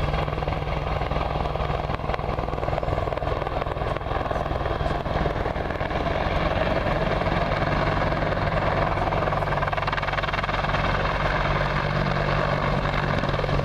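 British Army Apache attack helicopter in display flight: the steady beat of its main rotor over the whine of its turbine engines, growing a little louder after about six seconds.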